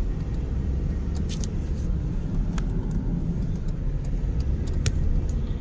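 Car driving, a steady low road and engine rumble, with a few short sharp clicks.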